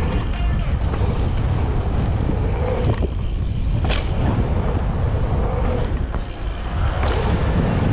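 Mountain bike riding fast down a dirt trail: steady wind rush on the microphone and tyre noise, with the bike rattling and knocking several times over rough ground.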